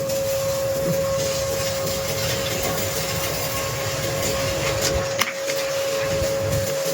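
Steady background hum and hiss with one constant tone, and a single sharp click about five seconds in.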